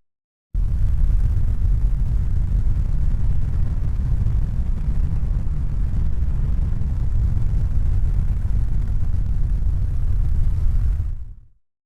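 A steady, even low rumble. It fades in after a brief silence at the start and fades out to silence shortly before the end.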